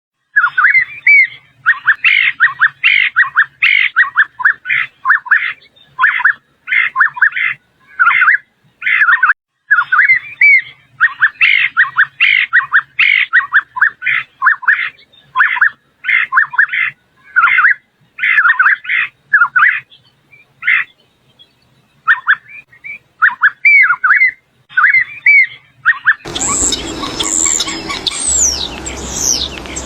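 Purple-throated euphonia (fim-fim) singing: a long, rapid run of short sliding chirps, repeated almost without break and with a few brief pauses. Near the end the sound changes to higher, falling whistled notes over a steady hiss.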